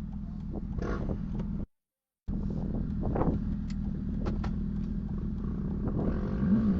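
Steady car engine and road drone, broken by about half a second of dead silence roughly two seconds in, then carrying on with a few faint knocks and voice-like sounds.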